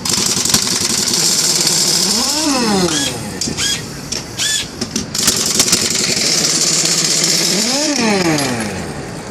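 Pneumatic impact wrench working the lug nuts on a semi truck wheel, running in two long bursts of hissing air with the motor's pitch rising and falling, and a few short clicks between the bursts.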